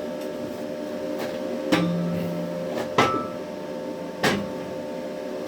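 Four sharp clanks of metal being handled, over a steady hum, with a short low buzz just after the second clank.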